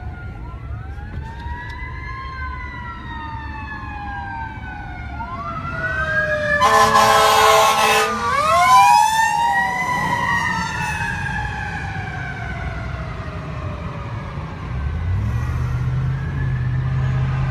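Fire engine running code 3: a Federal Q mechanical siren winding up and down in long falling wails, overlapping a second siren's rising and falling wail. An air horn blast of about a second and a half comes about seven seconds in, and a low steady drone starts near the end.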